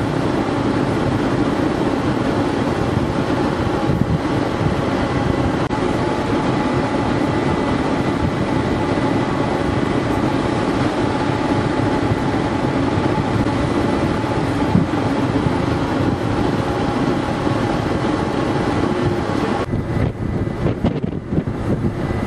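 Steady drone of a car ferry under way, mixed with rushing wind on the microphone; about twenty seconds in the hiss thins and the wind turns gustier and choppier.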